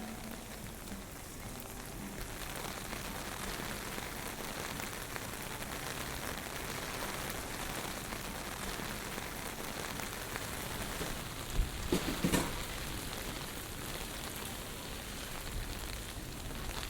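Heavy typhoon rain falling steadily, an even hiss of rain on hard surfaces. About twelve seconds in comes a brief cluster of louder, rumbling bursts.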